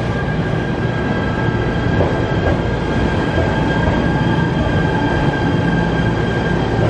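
Shinano Railway SR1 series electric train pulling into the platform: a steady low rumble with a thin high whine held throughout.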